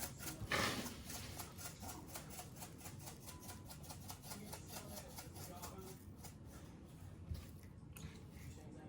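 Black pepper being dispensed at length: a quick, even run of light ticks, about five a second, that thins out and stops about six seconds in.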